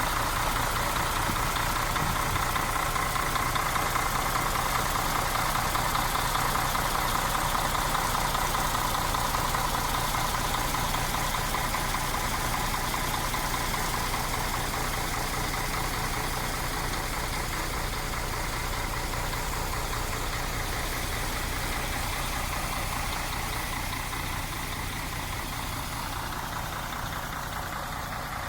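MAN TGA 18.360 truck's six-cylinder diesel engine idling steadily, growing a little quieter toward the end.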